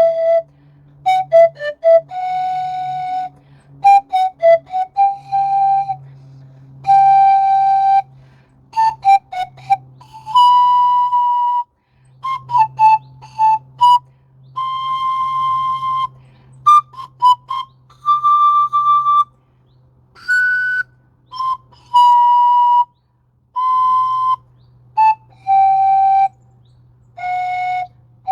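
A pan flute played by a learner: a slow, simple tune of separate notes, some held for a second or more and others short and quick. A low hum sounds underneath, dropping out now and then.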